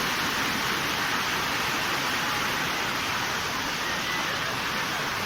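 Steady, even rushing of water, with no separate drops or splashes standing out.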